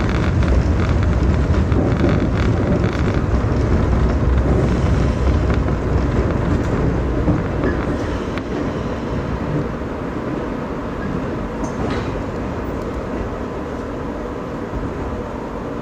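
Electric train running, heard from inside the passenger car: a steady rumble of wheels on rail that grows gradually quieter over the second half as the train slows alongside the platform.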